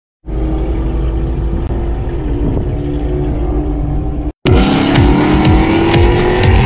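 A BMW 335i's N55 turbocharged straight-six heard from inside the cabin, idling with a steady low drone. After a sudden cut about four seconds in, it pulls under acceleration, its pitch slowly rising, with sharp clicks here and there.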